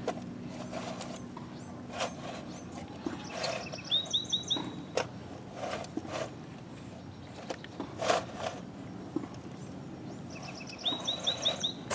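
A bird calling twice, each time a quick run of about five short high chirps, about four seconds in and again near the end. Between them come scattered scrapes and knocks of toy trucks pushing dirt, over steady outdoor background noise.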